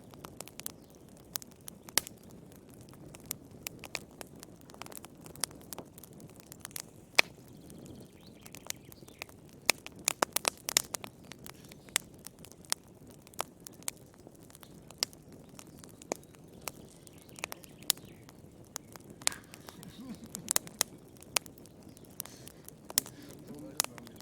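Wood fire crackling: irregular sharp pops and snaps over a low, steady rumble of flames, with a quick flurry of pops about ten seconds in.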